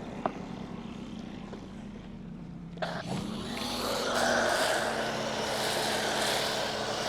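Pressure washer motor running with a steady hum. About three seconds in, the trigger is pulled: the motor's pitch dips under load and a steady hiss of spray starts, as foam is sprayed onto the car's paint as a pre-wash.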